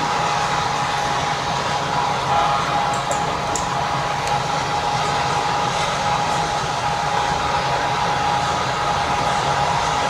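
Electric commuter train running: a steady whirring noise with a steady whine, and a few faint ticks about three seconds in.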